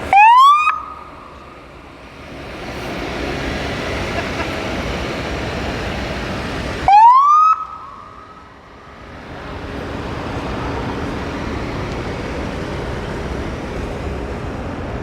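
Police car's Federal Signal SmartSiren electronic siren manually chirped twice, about seven seconds apart. Each chirp is a short rising wail that cuts off after under a second, over a steady background rumble.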